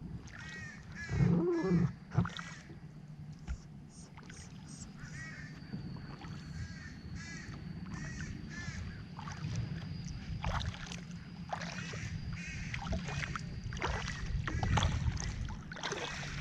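Birds giving many short, harsh repeated calls, over a steady low rumble, with one louder low burst between one and two seconds in.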